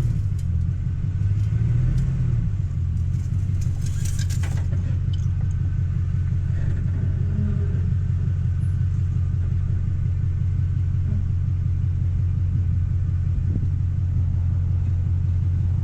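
Ford F-150 pickup's engine running steadily at low speed as the truck creeps forward out from under the jacked-up camper. A brief clatter about four seconds in.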